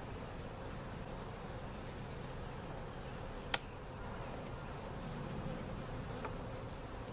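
Honeybees buzzing steadily around an opened hive, with one sharp click about three and a half seconds in.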